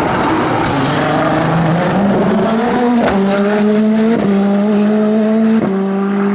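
Race car accelerating hard up a hillclimb course, its engine note climbing steadily and dropping sharply at three quick upshifts, about three, four and five and a half seconds in.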